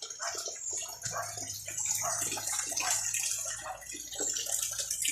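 Steady rain falling and dripping, with many small irregular splashes and drips.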